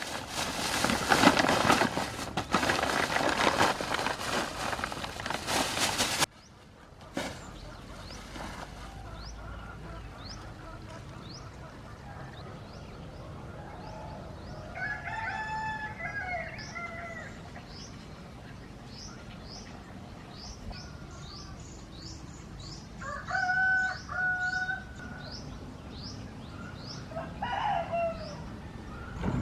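A rooster crows three times, each a long call, over a string of quick high chirps from small birds. Before that comes about six seconds of loud rough noise that cuts off suddenly.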